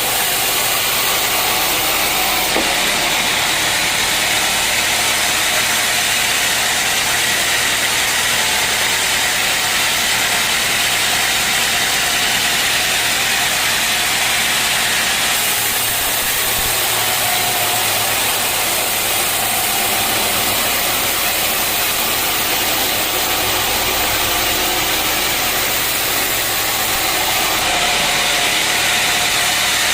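Sawmill machinery running steadily and continuously with a loud, even noise.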